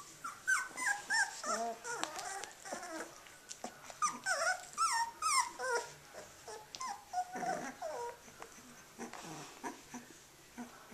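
A litter of 18-day-old Australian Shepherd puppies whimpering and squeaking: short, high whines that rise and fall in pitch, coming in clusters with brief pauses between.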